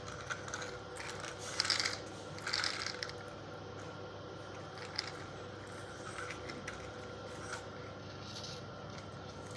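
Plastic toy tractor with trolley rattling and clicking as it is handled, with a cluster of louder rattles about one and a half to three seconds in and a single click about five seconds in, over a faint steady hum.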